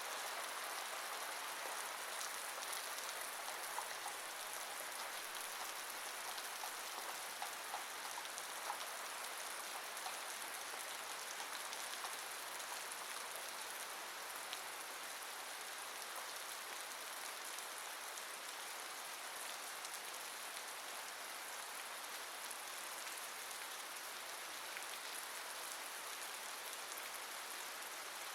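Steady rain falling: an even hiss with scattered ticks of single drops, a few sharper drop ticks in the first dozen seconds.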